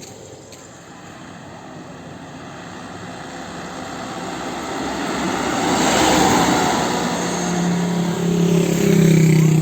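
A heavy vehicle passing close by on the road: engine and tyre noise swells to a peak about six seconds in, then a deep, steady hum of several held tones comes in near the end.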